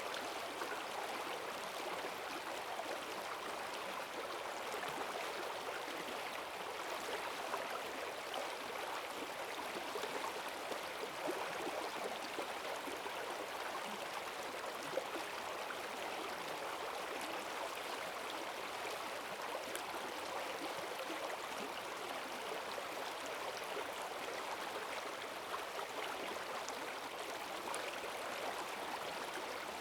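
Forest stream running high and fast after heavy rain: a steady rush of water over stones with small splashes and gurgles.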